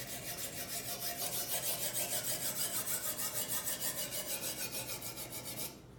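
The first sharpening stone of a guided knife sharpener is stroked rapidly back and forth along a large kitchen knife's edge, a rhythmic rasping rub at several strokes a second, raising a burr on the blade. The strokes stop abruptly near the end.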